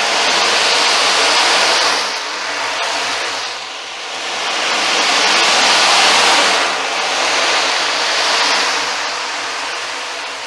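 Ocean drum played with its beads rolling across the drumhead, a surf-like hiss that swells and fades in slow waves every few seconds.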